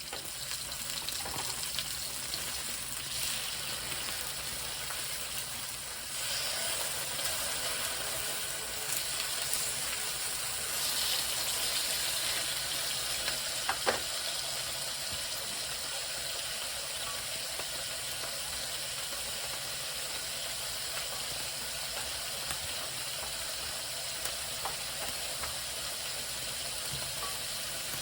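Food frying in a pan on the stove, a steady sizzling hiss, with one short click about halfway through.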